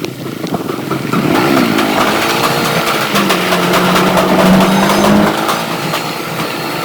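Motorcycle engine running on the move, picking up revs about a second and a half in, then holding a steady, louder note before easing slightly near the end.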